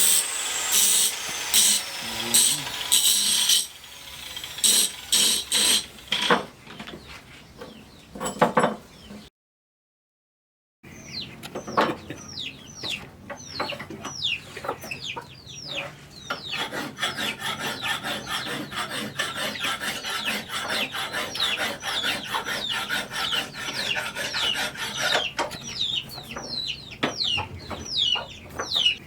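Hand sawing or rasping of wood with rough repeated strokes for the first several seconds; then, after a brief cut to silence, many birds chirping in short falling calls, repeated over and over.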